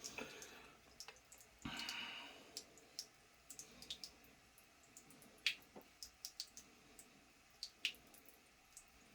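Faint handling noises: a brief soft swish about two seconds in, then a scatter of small, irregular clicks and ticks.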